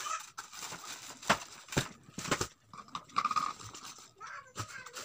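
Close-miked eating sounds: wet chewing and lip smacking by hand-fed mouthfuls of rice, with a few sharp clicks of the mouth, and a short voice-like tone a little past three seconds in.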